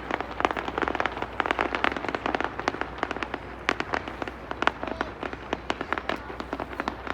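Fireworks crackling: a dense, irregular run of sharp pops and snaps, several a second.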